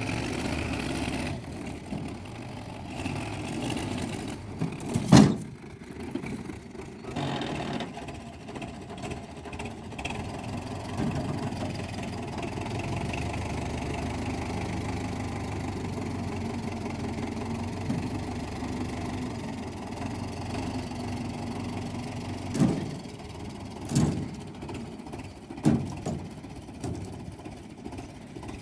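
Tractor engine running steadily, with a few loud thumps: the loudest about five seconds in, and three more near the end.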